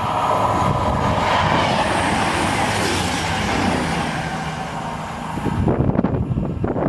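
CrossCountry Class 220/221 Voyager diesel-electric multiple unit passing through at speed: a rushing roar of wheels on rail and engines that builds, peaks as the train goes by and fades as it draws away. Gusts of wind hit the microphone near the end.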